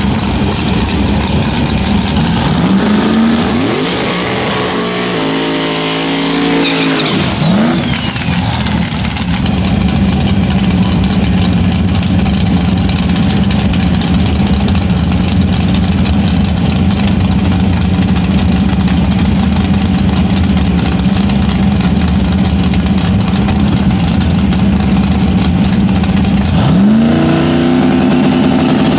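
Vehicle engine running loudly and steadily, with revving that rises and shifts a few seconds in and rises again near the end.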